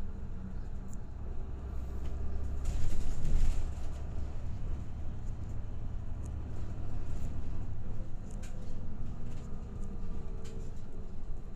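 Cabin sound of a route bus on the move: a steady low engine and road rumble, with a louder rush of noise about three seconds in and a few faint rattling ticks.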